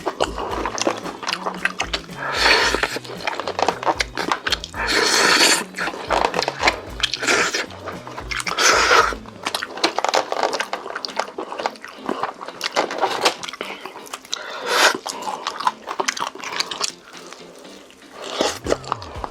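Close-miked eating of chicken: wet chewing, clicks and crunches, with several louder bites. Background music with a stepping bass line fades out about halfway through.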